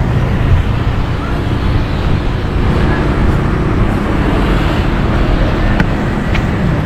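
Strong wind buffeting the microphone: a loud, steady, low rumble, with street traffic noise mixed in.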